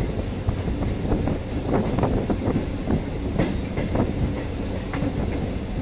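Local passenger train running along the track: a steady rumble with frequent, irregular knocks and rattles.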